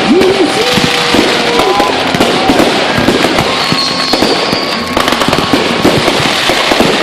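Aerial fireworks going off in a rapid, continuous barrage of bangs and crackles.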